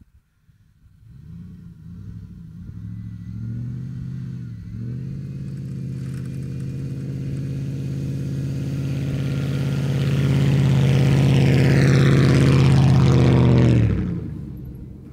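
Two-wheel-drive truck engine pulling hard up a rough slope, growing steadily louder, with a brief dip about four and a half seconds in. It cuts off abruptly near the end.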